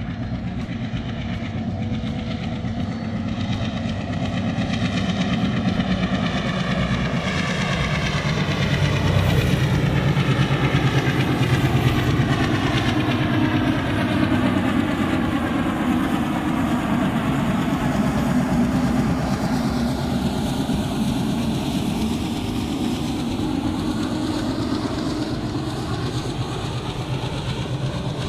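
Train crossing a railway bridge: a steady, loud rumble of wheels on rails that builds to its loudest about ten seconds in and then carries on.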